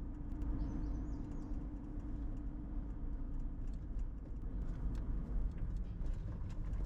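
A car's tyres rolling slowly over loose gravel, heard from inside the car: a steady low rumble with many small scattered crunching clicks of stones.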